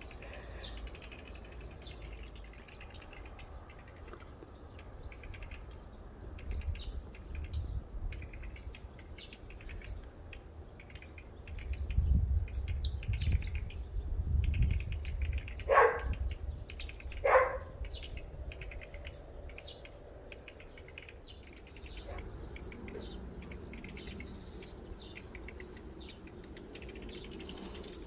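Small birds chirping: a steady run of short, high chirps, about two a second. A low rumble swells up around the middle, and two brief, sharper sounds come a little after it.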